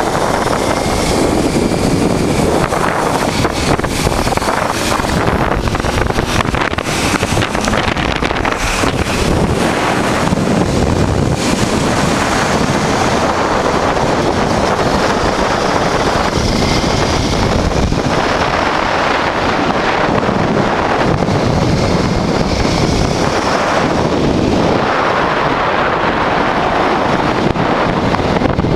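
Wind rushing and buffeting over the microphone of a moving motorcycle, with a 1988 Honda Transalp's V-twin engine running underneath at steady cruising speed. The wind noise swells and eases every few seconds.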